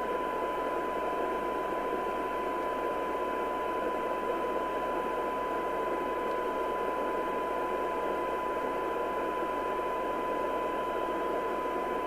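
Steady 1 kHz test tone from a Domico Convoy 1 FM CB radio's receiver audio, heard over a constant hiss. The mix is what a CB receiver gives when it is fed a weak test signal carrying a 1 kHz tone for alignment and sensitivity checks.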